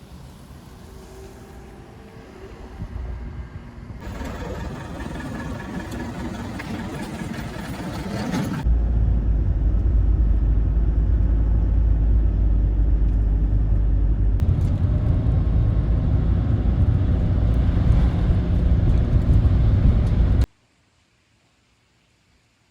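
Local passenger train running, heard from on board: a steady rumble that grows louder in steps, turning into a heavy low rumble for about the last twelve seconds before cutting off suddenly.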